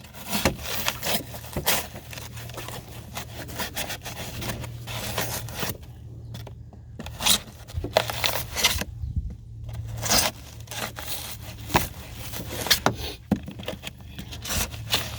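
Chisel scraping and prying along the side of pour-in polyurethane flotation foam, the foam crunching and tearing in irregular strokes as a thin section is worked loose.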